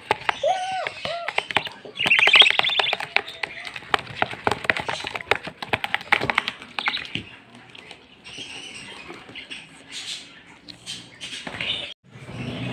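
Caged pet birds chirping and chattering in a rapid, busy jumble of short, high chirps and clicks, loudest about two seconds in and thinning out in the second half.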